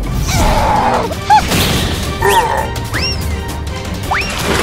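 Action-scene soundtrack: dramatic background music with crash and impact sound effects, the loudest hit about a second in, and several short whistling glides that rise and fall.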